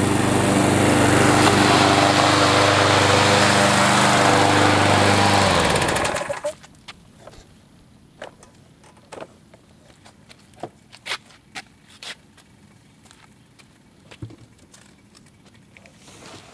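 Gasoline lawn mower engine running steadily at mowing speed, then shut off about six seconds in and dying away quickly. Afterwards only scattered light clicks and taps.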